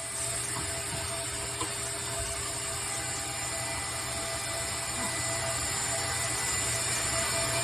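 Vacuum cleaner running steadily through a dryer-vent cleaning hose, an even motor drone with a low hum and a faint steady whine.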